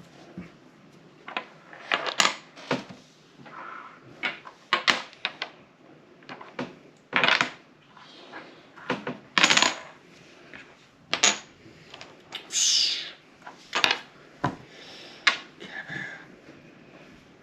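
Game pieces clicking and clattering against a tabletop and each other: irregular sharp clicks, several with a short ring, spread through the whole stretch.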